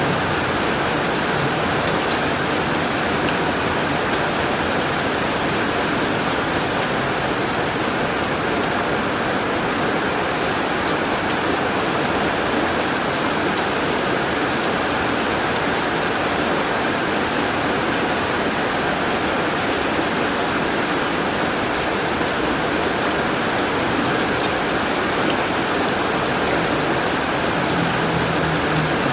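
Heavy rain falling steadily on a tin roof, a dense even patter with individual drops ticking sharply here and there.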